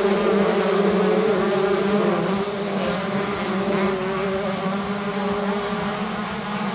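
125cc two-stroke motocross bikes running at high revs: a steady, high-pitched engine note whose pitch wavers slightly and which eases off a little toward the end.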